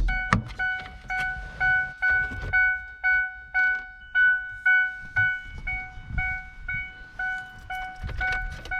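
2002 Ford Ranger's electronic warning chime beeping over and over, about two evenly spaced beeps a second, with a few knocks from handling in between.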